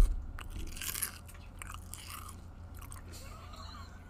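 Close-up chewing and crunching of mayonnaise-flavoured potato chips held right at the microphone, with a loud thump at the very start and crisper crunches in the first second before the chewing grows fainter.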